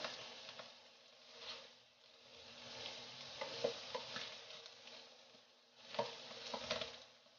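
Minced mushrooms, onion and garlic sizzling faintly in a nonstick pan while a plastic spatula stirs them, with short scrapes and taps against the pan every second or two.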